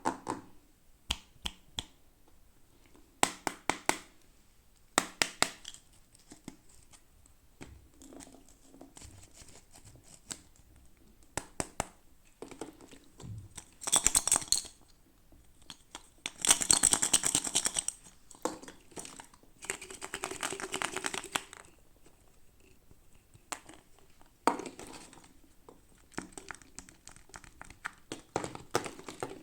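Toy packaging being unwrapped by hand: scattered sharp clicks and taps, with three longer stretches of crinkling and tearing around the middle.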